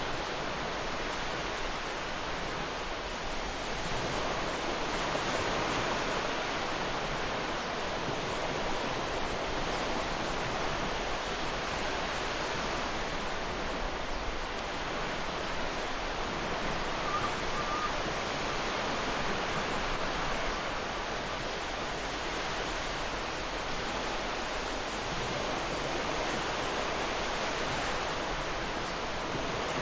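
Ocean surf breaking and washing up on a beach: a steady rushing of waves that rises and eases gently every several seconds.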